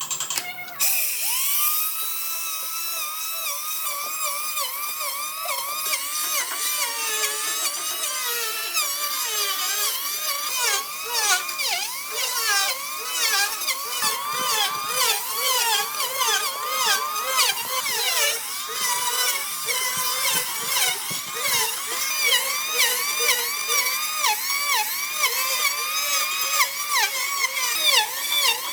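Handheld electric power tool cutting into burl wood. Its whine rises as it spins up about a second in, then repeatedly dips in pitch and recovers as it bites into the wood.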